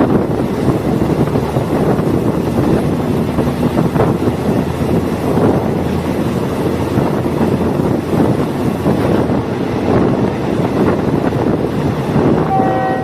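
Diesel multiple-unit train running along the line: a steady rumble of engine and wheels on rail, with wind noise. About half a second before the end its horn begins to sound.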